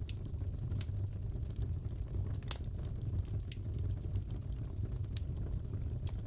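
Crackling fireplace: a steady low rumble of burning with scattered sharp pops, the loudest pop about two and a half seconds in.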